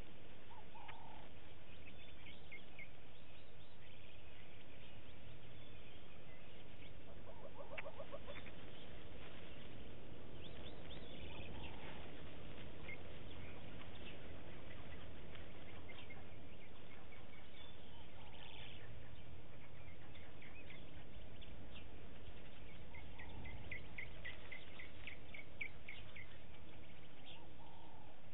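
Wild birds calling in the bush: scattered short chirps and trills, with a lower rapid trill about eight seconds in and a quick run of chirps near the end, over a steady hiss.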